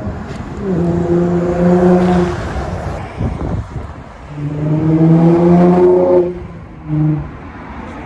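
2004 Infiniti G35's 3.5-litre V6 through a Motordyne TDX-2 Shockwave cat-back exhaust, revving: two held swells in the engine note of about a second and a half each, the second louder, then a short blip near the end.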